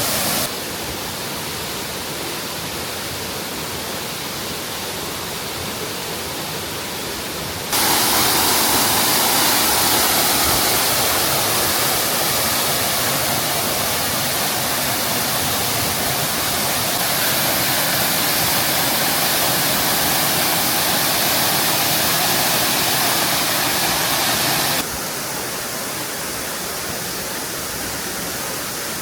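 Waterfall: a steady rush of falling water. It turns abruptly louder and brighter about a quarter of the way in and drops back just as abruptly near the end.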